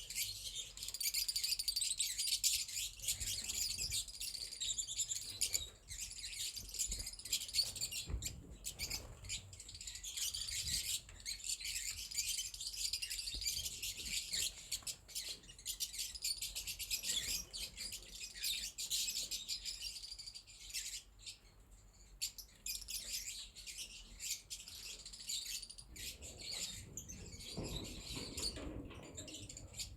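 A colony of lovebirds chattering: many rapid, high-pitched chirps overlapping without pause, thinning somewhat in the later part. A low rumble comes in near the end.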